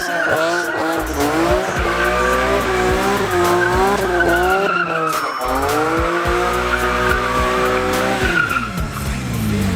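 Car doing donuts: tyres squealing steadily while the engine's revs rise and fall over and over, easing off near the end.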